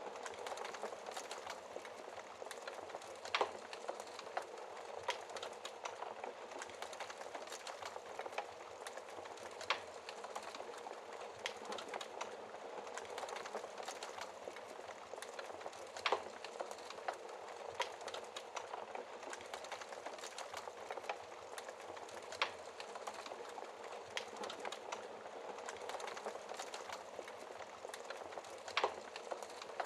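Wood fire burning in a fireplace, crackling steadily with a dense run of small snaps and, now and then, a louder pop.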